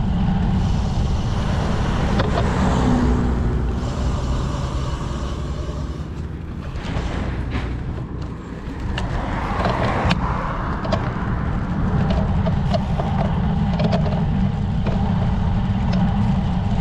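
Wind buffeting the microphone of a camera riding on a moving road bike: a steady low rumble that eases for a few seconds in the middle.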